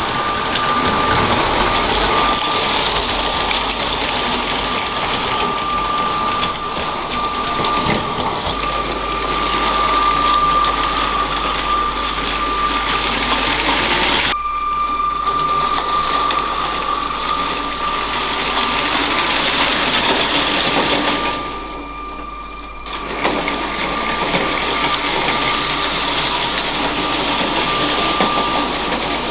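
LEGO train running on plastic track: a steady whine from its small electric motor over the rolling rattle of the wheels. The sound drops away briefly about two-thirds of the way through.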